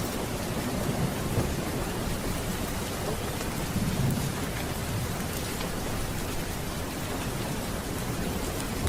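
Steady rain with low rolling thunder that swells about a second in and again about four seconds in.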